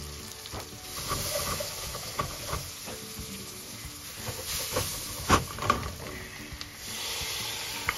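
Sliced onions and curry spices sizzling in hot oil in a metal pot while a utensil stirs them. A few sharp clinks of the utensil against the pot come about five seconds in.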